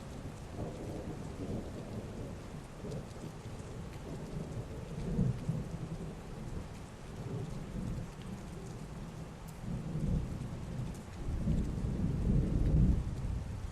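Heavy rain falling steadily, with rolling thunder rumbling through it; the rumble swells a few times and is loudest near the end before fading.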